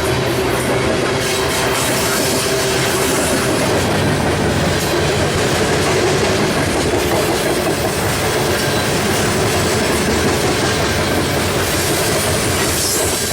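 Loaded grain train of freight cars rolling past, its steel wheels running steadily on the rails.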